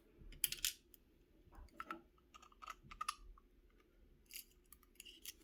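Irregular small metallic clicks and scrapes from the parts of a Corbin Master Ring mortise lock cylinder being handled while it is taken apart, as the pins and spools come out.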